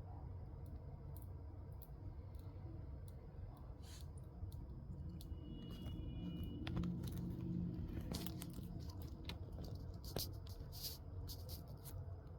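Giant Asian mantis (Hierodula patellifera) chewing a spotted lanternfly: scattered small crisp clicks and crunches, coming thicker about two-thirds of the way through, over a steady low hum.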